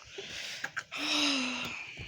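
A woman's breathy, voiced sigh lasting under a second, starting about halfway in, after a few small clicks.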